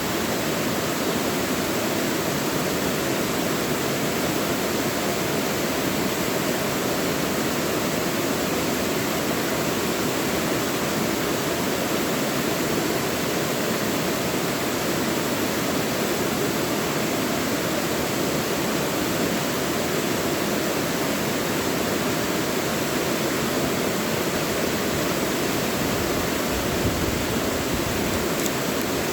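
Mountain stream rushing over rocks in a deep valley: a steady, even rush of water with no change.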